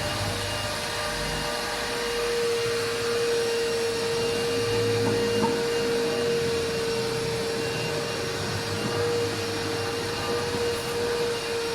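Vacuum cleaner running steadily with a constant motor whine over rushing air.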